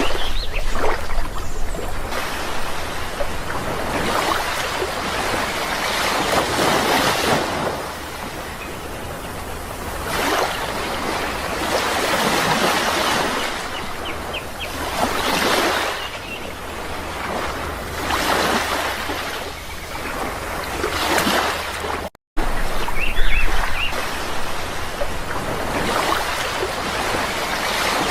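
Sea waves breaking and washing ashore in repeated surges every two to three seconds, with a few faint bird chirps. The sound cuts out completely for a moment about two thirds of the way through.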